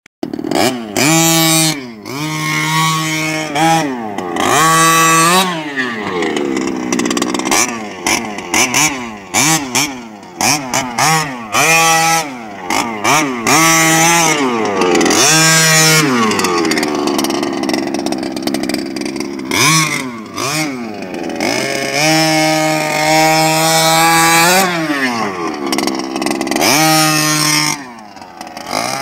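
Small two-stroke petrol engine of an HPI Baja 5SC SS 1/5-scale RC truck, revved up and let fall back again and again, with a few longer stretches held at high revs.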